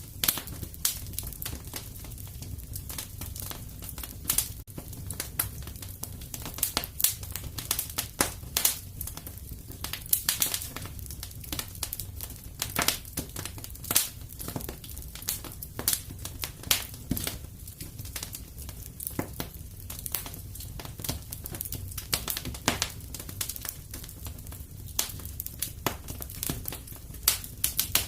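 Wood fire crackling in a fireplace: a dense run of irregular sharp crackles, some louder snaps among them, over a steady low rumble of the flames.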